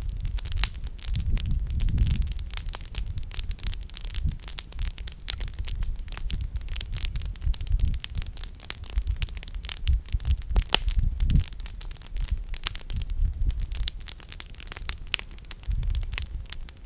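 Wood campfire crackling, with many sharp irregular pops from the burning firewood over a low rumble that swells and fades.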